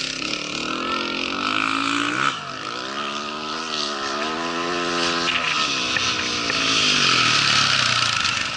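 Rally motorcycle engine passing at speed: it grows louder and revs up, drops in pitch about two seconds in as it shifts, then climbs again and falls away as the bike goes by, over a steady hiss.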